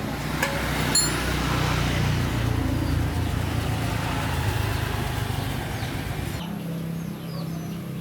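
A motor running with a steady low hum and hiss, two clicks near the start. About three-quarters of the way in the hiss cuts off abruptly, leaving the low hum with birds chirping.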